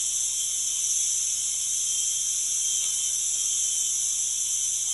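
Steady, loud hiss of natural gas escaping from a broken gas line at the side of a storm-damaged house.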